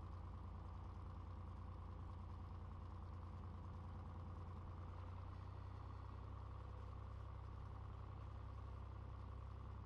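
Cessna 182's piston engine running steadily at low power, a low even drone with a slight change in its lowest tone about halfway through.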